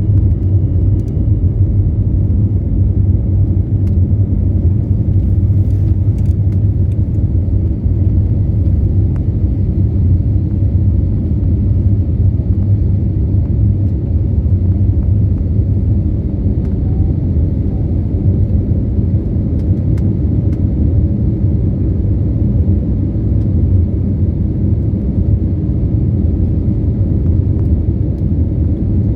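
Airbus airliner cabin noise: a loud, steady low rumble of the jet engines and airflow, heard from inside the passenger cabin, with a few faint clicks about six seconds in.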